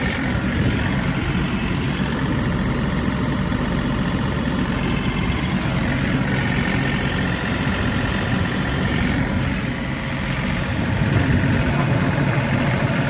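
John Deere diesel tractor engine running steadily while pulling a brush hog (rotary cutter), a continuous low drone that gets a little louder near the end.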